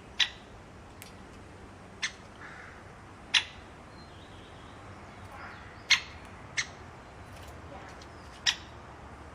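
A bird giving short, sharp chirps, six in all, one to two and a half seconds apart, over a steady background hiss.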